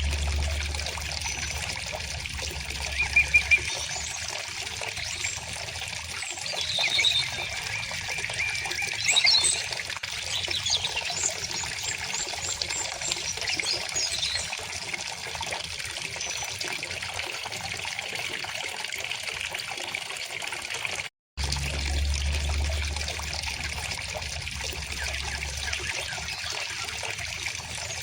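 River water flowing steadily, with birds chirping and singing over it, most of the song in the first half. The sound cuts out for a split second about two-thirds of the way through.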